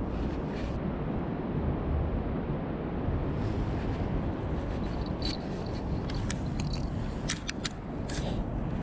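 Steady low outdoor rumble, with a run of sharp clicks and ticks in the second half.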